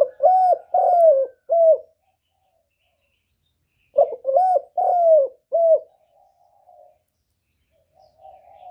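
Spotted dove cooing: two phrases of four or five rounded, arching coos, about four seconds apart. A fainter cooing murmur comes near the end.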